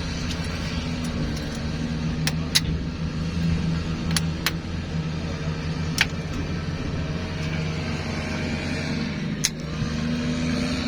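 A motor vehicle engine running steadily at idle, a low even hum, with about six short sharp clicks or taps scattered through it.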